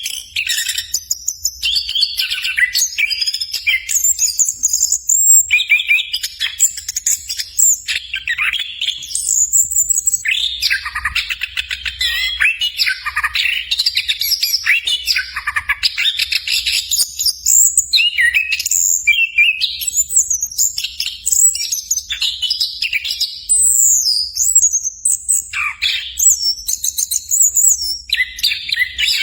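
Chestnut-capped thrush (anis kembang) singing a long, varied song of fast trills and whistled phrases that runs on with hardly a pause.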